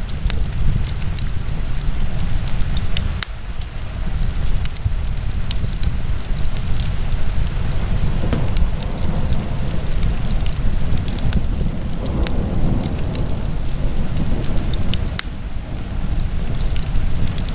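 Wood fire burning in a fireplace, crackling with many small scattered pops and a few sharper snaps over a steady low rumble.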